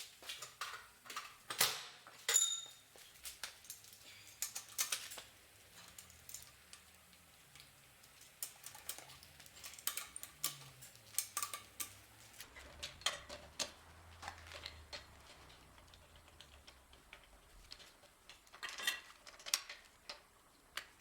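Scattered light metallic clicks, clinks and knocks of tools and wheel bolts being handled during a wheel change. One clink about two seconds in rings briefly.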